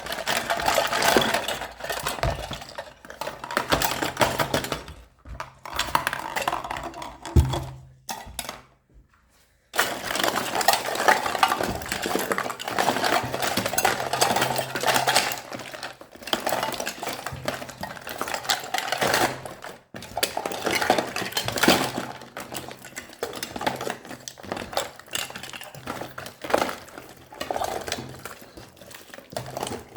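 Hands mixing a large mass of old slime with plastic charms and toys worked into it, giving dense crackling, popping and clicking. There is a brief gap of near silence a little before ten seconds in.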